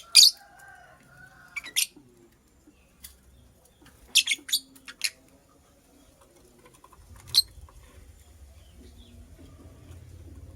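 Lovebird giving short, sharp, high chirps: two near the start, a quick run of three around the middle, and one more a couple of seconds later.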